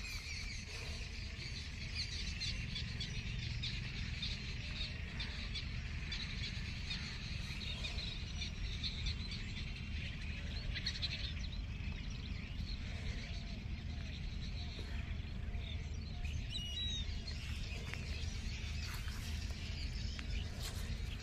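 Small birds chirping on and off over a low steady rumble.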